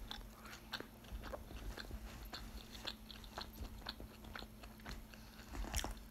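Close-mouthed chewing of a mouthful of chicken burrito, with small wet clicks and smacks coming irregularly, a few per second.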